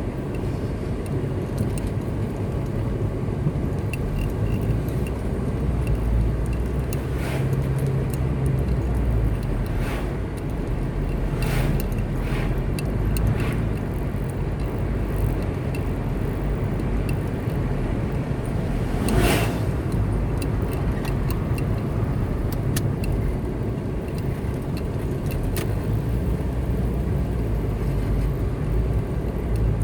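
Car driving at road speed: a steady low engine and tyre rumble, with scattered light ticks and rattles. About nineteen seconds in there is one brief, louder burst of noise.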